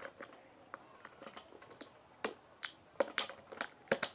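Irregular light clicks and taps of a plastic toy refrigerator's parts and packaging being handled while a taped compartment is worked open, with a few sharper clicks after about two seconds and near the end.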